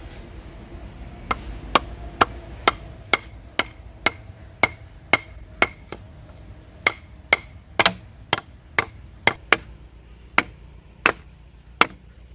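A hand tool strikes wood again and again, about twenty sharp blows at roughly two a second, each with a brief ring. There are two short pauses in the series.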